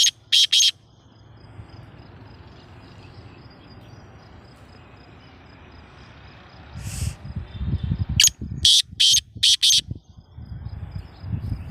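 Black francolin calling: short, harsh, grating notes, a couple just after the start and a quick run of about five some eight seconds in. A low rumble comes up around the later run.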